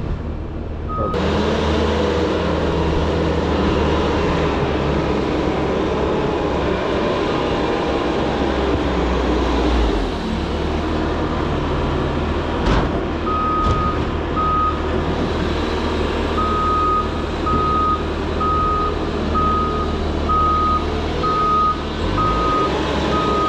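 Heavy work vehicle's engine running steadily, with its backup alarm beeping about once a second from a little over halfway in, as the vehicle reverses.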